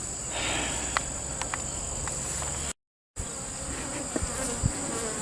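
A honey bee colony buzzing loudly around an opened hive, with bees stirred up and flying after the boxes were pulled apart. The sound cuts out for a moment near the middle.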